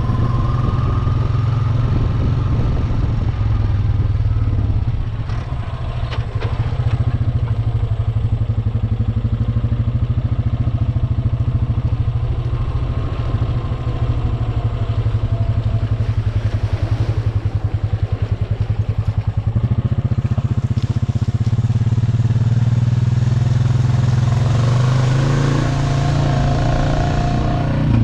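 Honda Rancher 420 ATV's single-cylinder four-stroke engine running steadily while riding, dipping briefly about five seconds in.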